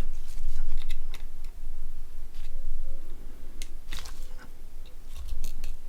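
Small plastic parts of a disassembled Nokia 6680 being handled and pried at by hand, giving scattered sharp clicks and crunches, in clusters about a second in, near four seconds and near the end.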